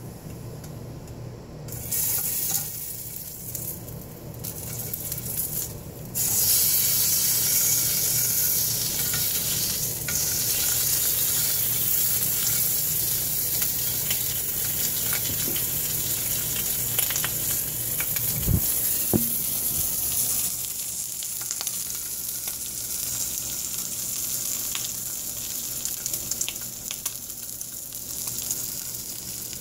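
Bacon-wrapped grilled cheese sizzling in bacon grease in a frying pan. The hissing starts about two seconds in and gets sharply louder about six seconds in, then runs on steadily, with a couple of light knocks of metal tongs against the pan around the middle.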